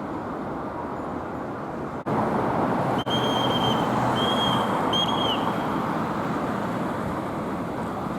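Street traffic and tram running noise, broken off abruptly twice about two and three seconds in and louder after the breaks. In the middle come three high, steady squeals or whistles, the last dropping in pitch as it ends.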